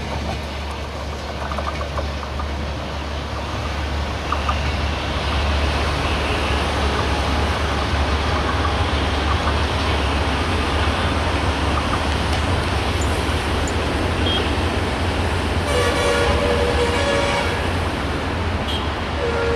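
Passenger train running away along the track with a steady low rumble. A little after three-quarters of the way through, a horn sounds for about a second and a half, and it sounds again at the very end.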